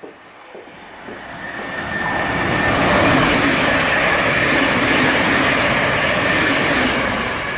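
A train passing along the station tracks: a rushing rail noise that builds over the first two to three seconds, holds steady with a faint steady whine, and begins to fade near the end.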